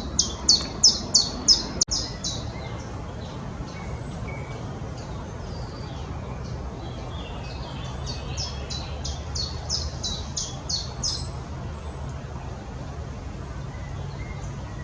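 A songbird singing a run of about seven evenly repeated high notes, then after a pause a second, similar run, over a steady low background rumble.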